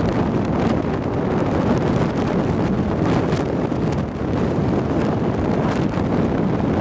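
Gale-force wind buffeting the microphone in a loud, steady rumble over the rush of large storm waves on Lake Michigan.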